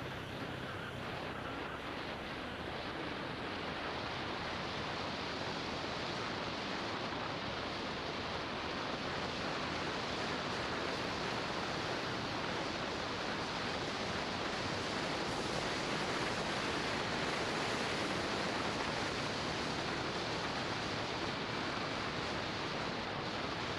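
Steady rush of wind noise on the microphone of a 360 action camera riding on a moving motorbike, with no engine note standing out; it grows a little louder about nine seconds in.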